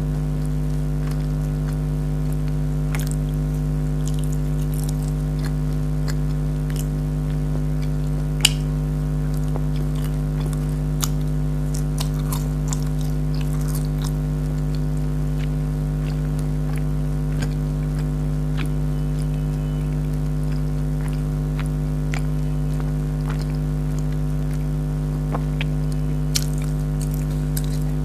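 Close-miked biting and chewing of jalebi, with a few scattered sharp clicks, over a steady electrical hum that is the loudest sound throughout.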